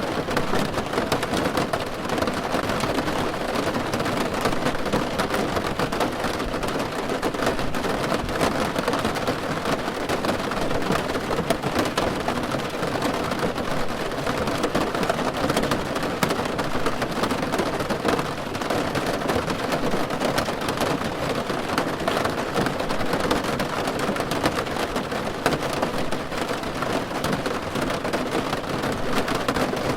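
Steady rain falling on a car roof, a dense, even patter of many drops heard from inside the car.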